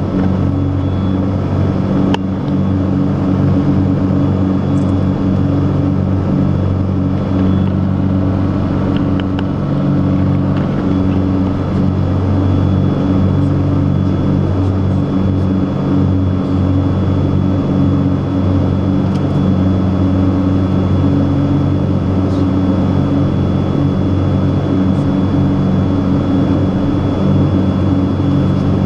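Cessna RAM 421C's twin piston engines and propellers heard from inside the cabin, running at a steady cruise power: a constant low drone.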